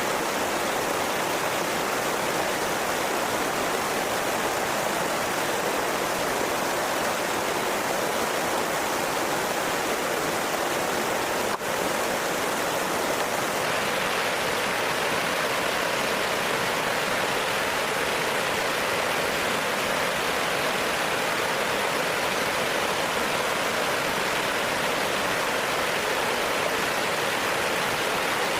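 Steady rushing of flowing water, with a momentary dip about twelve seconds in.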